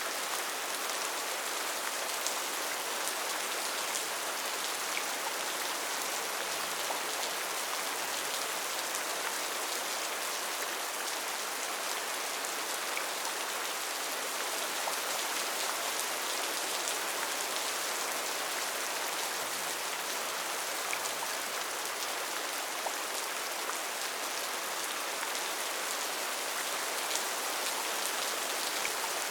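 Steady rainfall in a rainforest, a dense even hiss with individual drops pattering and ticking through it.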